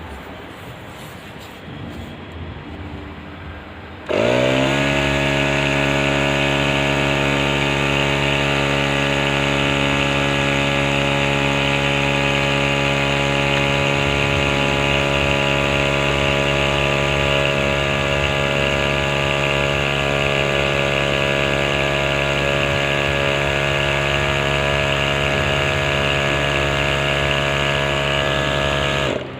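A machine's motor starts suddenly about four seconds in. Its pitch dips briefly, then holds steady as it runs, and it cuts off abruptly near the end.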